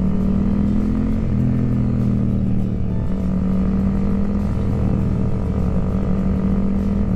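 Motorcycle engine running at a steady road speed with wind rush. It is a steady drone whose pitch shifts about a second in.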